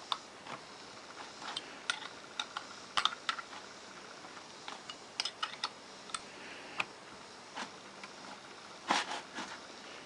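Scattered light clicks and taps of small metal parts and hand tools being handled, with a louder clatter about nine seconds in.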